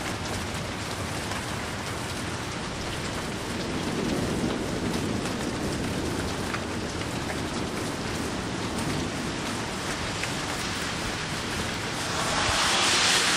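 Steady heavy rain falling during a thunderstorm, with a low rumble of distant thunder swelling about four seconds in. The rain's hiss grows louder near the end.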